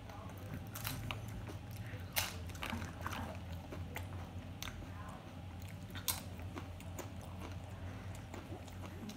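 Close-up chewing and crunching of tortilla-chip nachos, with irregular sharp crunches. The loudest come about two seconds in and about six seconds in.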